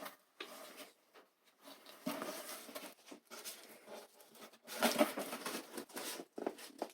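Irregular spells of light scraping and rustling as craft board is handled and pressed together while being hot-glued, the busiest stretch about five seconds in.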